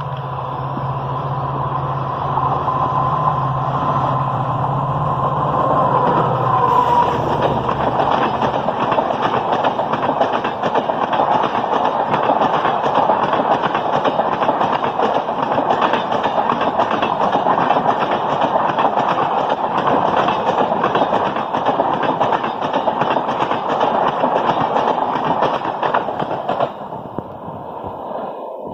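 EMD WDP-4 diesel locomotive passing at speed while sounding its horn in one long blast, with a low engine hum underneath. The horn's pitch drops as the locomotive goes by, about six seconds in. A long rake of LHB coaches follows with rapid, steady wheel clatter over the rail joints, which falls away suddenly near the end as the last coach clears.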